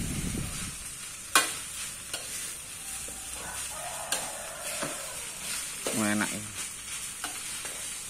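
Fried rice sizzling in a metal pan on a portable gas stove while a metal ladle stirs and scrapes through it, with sharp clinks of the utensil against the pan, the loudest about a second and a half in.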